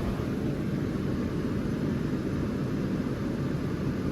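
Vintage Carry Cool 5,000 BTU window air conditioner running on fan only at high speed, with the compressor off. The indoor blower and the outdoor fan make a steady hum and rush of air.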